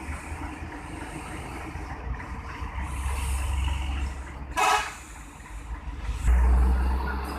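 Heavy trucks rumbling past in traffic, with a short horn honk a little past halfway. Near the end a truck passes close, its engine rumble rising suddenly to the loudest point, with a hiss on top.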